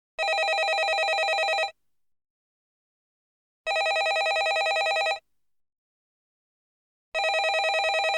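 Landline telephone ringing: three rings of about a second and a half each, with about two seconds of silence between them, each ring a fast trill at a steady pitch. The last ring is cut off at the end.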